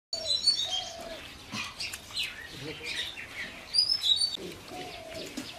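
Small birds chirping: short, high calls in two clusters, one near the start and one about four seconds in, over general outdoor background noise.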